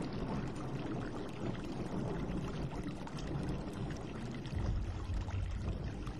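A steady rushing noise with a low rumble that grows heavier about four and a half seconds in.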